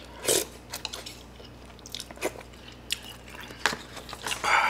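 Close-miked eating: a person chewing a spoonful of rice soaked in pho broth, with scattered short wet mouth clicks and smacks and a louder rush of noise near the end.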